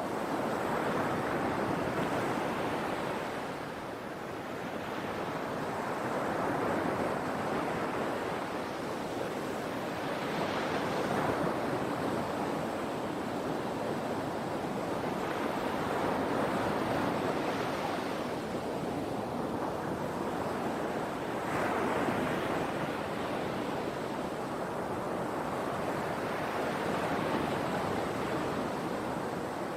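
Sea waves breaking and washing in on the shore, the surf swelling and easing every few seconds.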